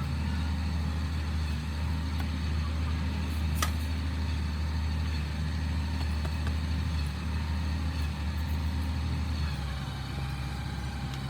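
Restored diesel truck engine running steadily with a low, even drone, with a single sharp click about three and a half seconds in.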